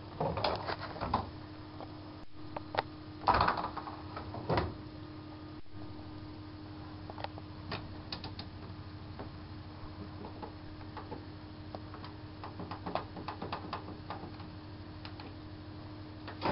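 Bauknecht WAK7751 washing machine at the start of its 60°C mixed-wash programme: a steady low hum with irregular clicks and knocks, two of them louder in the first few seconds, then lighter scattered ticks.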